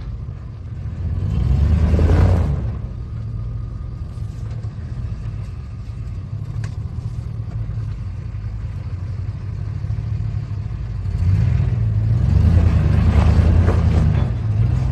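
Off-road truck engine running low and steady, revved up in two surges: a short one about two seconds in and a longer one from about eleven to fourteen seconds in.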